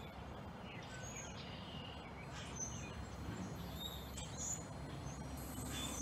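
Scattered short bird chirps and calls, faint, over a steady low background rumble.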